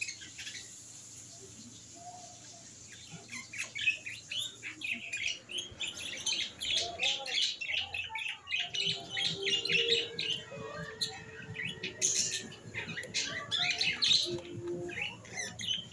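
Small birds chirping, a rapid run of short high chirps that gets busier from about three seconds in.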